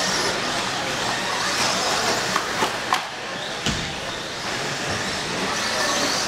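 Radio-controlled stock trucks racing around a track: a continuous hiss of motors and tyres on the surface, broken by a few sharp knocks a little past the middle, typical of trucks landing jumps or hitting each other.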